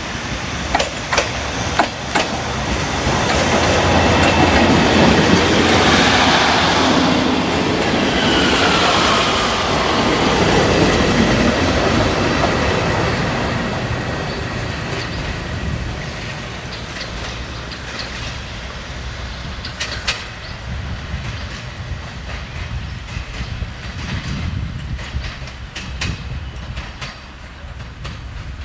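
Two-car diesel multiple unit passing close by. Sharp wheel clacks over the rail joints lead into a swell of engine and wheel noise, with a falling whine as it goes by. The noise then fades as the unit pulls away, still clacking over the joints.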